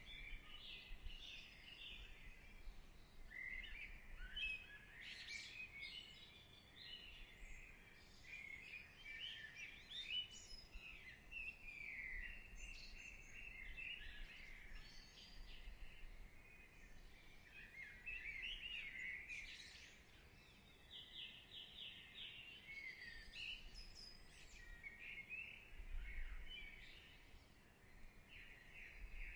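Faint birdsong: small birds chirping and whistling in short overlapping phrases, with a quick trill of repeated notes about three quarters of the way through.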